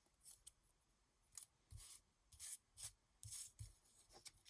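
Cardstock die-cut pieces being handled and shuffled: a series of short, faint paper rustles and scrapes.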